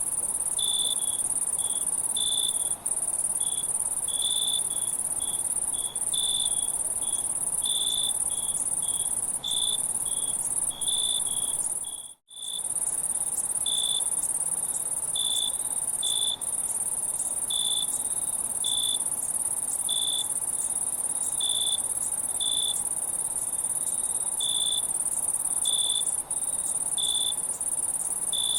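Crickets chirping at night: short high chirps, about one or two a second, over a steady high-pitched insect drone. The sound cuts out for an instant about twelve seconds in.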